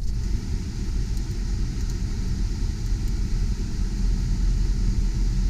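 GMC Sierra 3500 HD truck engine idling steadily, heard inside the cab, with the air-conditioning blower rushing air out of the vents as a steady hiss.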